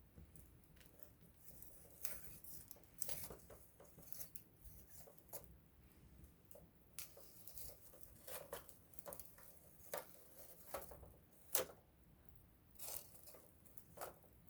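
Wood campfire crackling close up: irregular sharp pops and snaps over a faint hiss, with one louder pop about eleven and a half seconds in.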